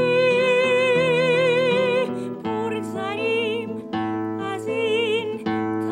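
A Persian song: a sung melody of long held notes with a wide vibrato, over a steady instrumental accompaniment. The first note is held for about two seconds, and shorter wavering phrases follow.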